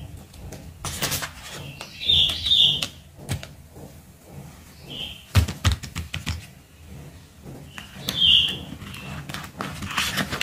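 A bird chirping in short bright double chirps, a few seconds apart, the loudest sounds here. Under them, the crinkling and light clicks of plastic-wrapped sticker packs being handled.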